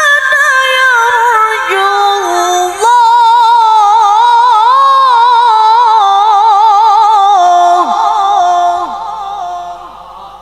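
A woman reciting the Qur'an in melodic tilawah style, drawing out one verse in long ornamented phrases with rapid wavering turns. There is a brief breath-like break about three seconds in, then the held line steps down and trails off near the end.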